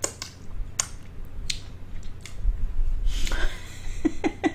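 Close-miked wet eating sounds from a seafood boil: sharp mouth smacks and clicks, then denser juicy chewing and slurping. A few short pitched sounds that bend in pitch come near the end.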